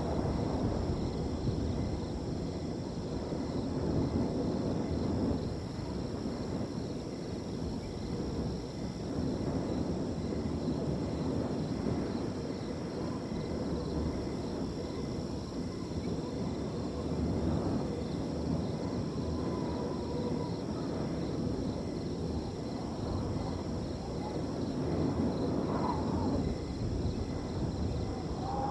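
Wind blowing through a field, rising and falling in gusts, over a steady high trilling of crickets.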